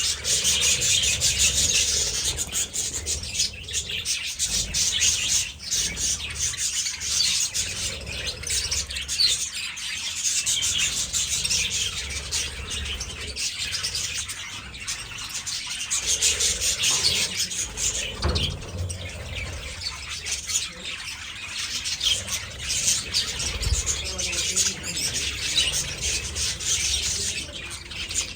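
A flock of budgies chattering continuously, a dense mass of overlapping chirps and squeaks.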